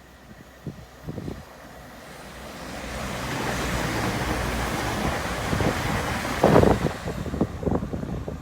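A vehicle passing close by: a rushing noise that swells over a second or so and holds steady, with low buffeting thumps of wind on the microphone near the end.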